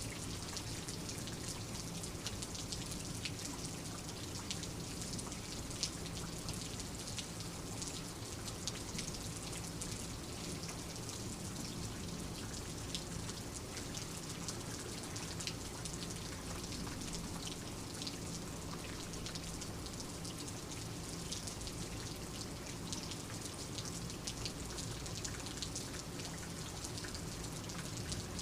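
Steady rain, with many sharp individual drop ticks over an even low rumble.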